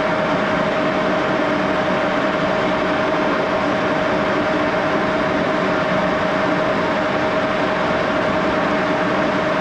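Axelson engine lathe running steadily at about 628 rpm, with an even whirr of the spindle and gearing and a steady whine held at one pitch. Running pretty smooth at this speed.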